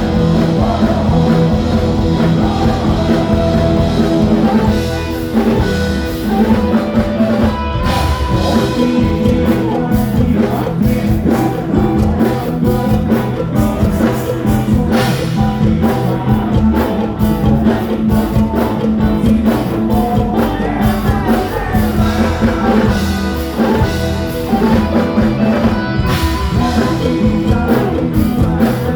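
A live band playing loud, rock-style music with drum kit and electric guitar, with a voice singing over it.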